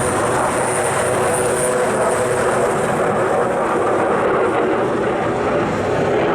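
F-16C fighter jet's engine running loud and steady, with a high thin whine that fades away in the first few seconds.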